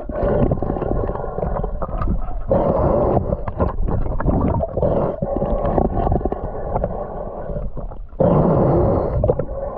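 Water sloshing and bubbling around a spearfishing swimmer, heard as a loud, muffled rumble with irregular splashy bursts.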